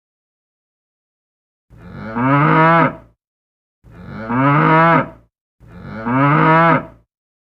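A cow mooing three times, each moo long and alike, with silence between them.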